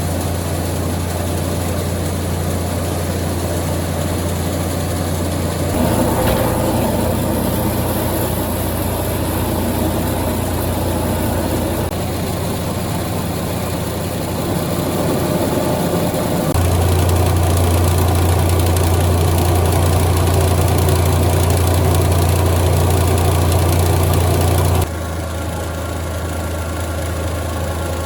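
A machine running with a steady low hum and noise above it. Its level and tone change abruptly several times: about a fifth of the way in, past halfway (where it gets louder), and near the end.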